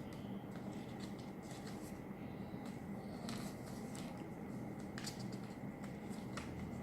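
A square sheet of paper being handled, folded and creased by hand, with faint scattered rustles and crinkles over a steady low hum.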